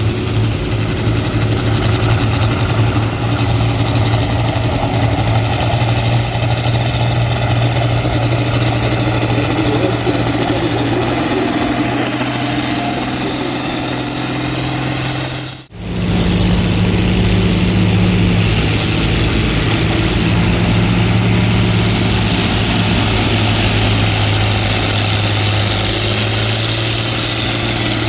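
Farm tractor engine running hard and steady during a tractor pull, a constant low drone with a faint high whine above it. The sound breaks off abruptly about two-thirds of the way through, and the steady engine drone picks up again straight after.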